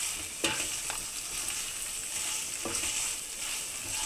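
Okra, badi and tomato masala sizzling in a non-stick pan while a spatula stirs it, with a few short scrapes of the spatula against the pan.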